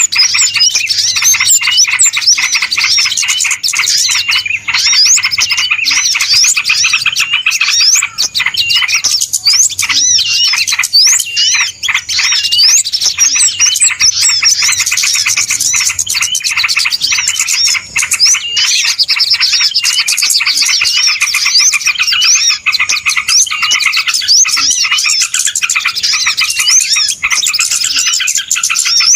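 Dense, unbroken chorus of many small birds chirping and twittering at high pitch, the calls overlapping thickly: a bird-lure (pikat) recording of a noisy flock.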